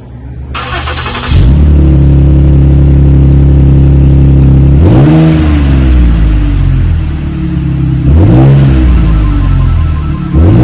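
2016 Ford Taurus SHO's 3.5-litre twin-turbo V6 through a true X-pipe and Magnaflow straight-through mufflers with the mid mufflers deleted, in a smooth, deep tone. The starter cranks for under a second, then the engine catches with a flare and settles into a steady idle. It is then revved three times: about five seconds in, about eight seconds in, and near the end.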